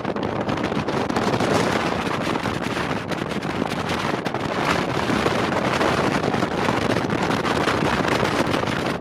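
RIB speedboat under way at speed: steady loud wind noise over the microphone mixed with the running boat and water.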